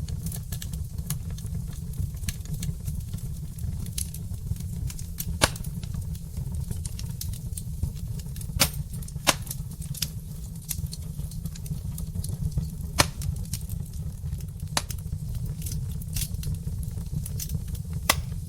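Wood fire crackling in a fireplace: burning logs give off irregular sharp pops and snaps over a steady low rumble, with a few pops louder than the rest.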